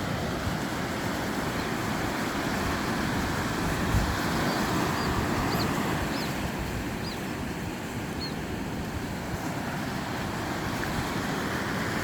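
Strong wind buffeting the microphone with a low, uneven rumble over the steady wash of ocean surf. A few faint high chirps come through around the middle.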